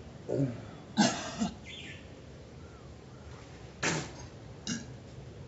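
A person coughing and gagging in short bursts, two sharper coughs about a second in and near four seconds, with brief groans between, as from someone sickened by drinking too much milk.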